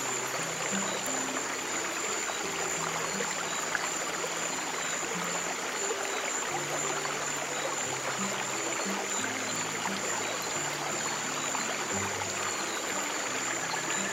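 Steady flowing stream water mixed with slow, low piano notes, each held a second or two, and a thin steady high tone throughout.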